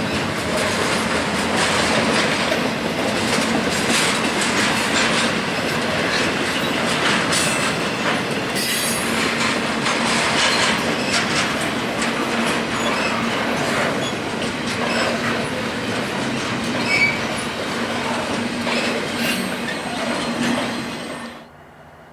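Freight train cars rolling past, wheels clattering with many clicks and some squeal. The sound cuts off abruptly near the end.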